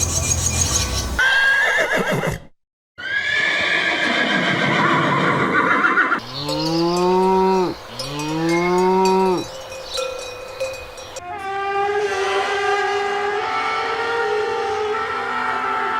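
Farm animals calling in a run of separate short clips. About a third of the way in, two low, drawn-out calls rise and fall in pitch, each about a second and a half long. Other pitched calls come before and after them.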